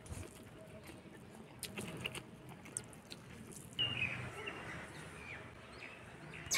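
A small bird chirping in short, high, falling calls starting about four seconds in, over a few faint scattered clicks and taps.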